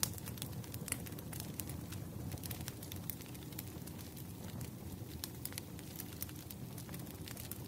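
Fireplace crackling: irregular sharp pops and snaps from burning wood over a low steady rumble of the fire.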